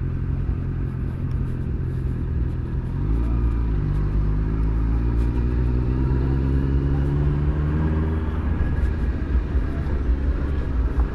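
Motorcycle engine under way, holding a steady note, then about three seconds in it climbs steadily in pitch as it accelerates. The note drops away about eight seconds in, leaving rougher engine and wind noise.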